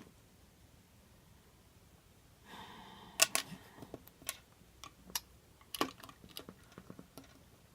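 Plastic LEGO bricks being handled and pressed together: quiet at first, then a brief rustle and a string of sharp, irregular clicks and taps.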